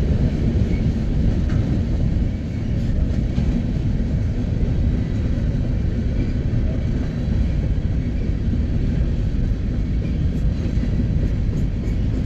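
A freight train on the BNSF Sioux City subdivision rolls past with a steady low rumble of wheels and cars.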